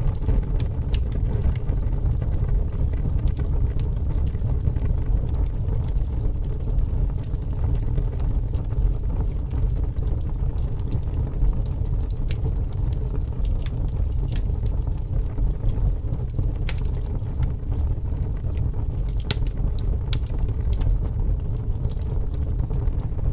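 Fire burning, with a steady low rumble and frequent sharp crackles and pops scattered irregularly throughout.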